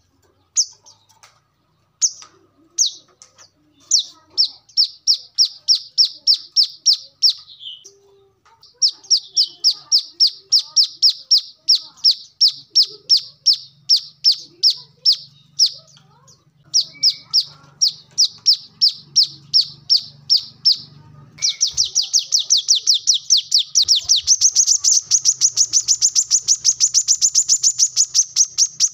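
Brown-throated sunbird (kolibri kelapa) singing: runs of rapid, high, evenly repeated chirps, about four a second, broken by short pauses. About two-thirds of the way in it breaks into a longer, faster, unbroken run that climbs a little higher in pitch.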